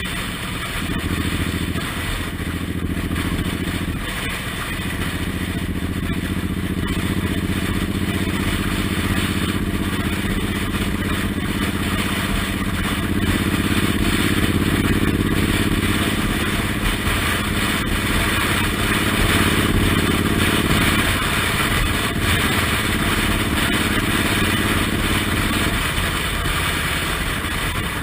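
Suzuki Intruder M1800R's big V-twin engine running under way, its note holding steady for stretches and changing several times as the throttle and gears change, over a steady rush of wind and road noise.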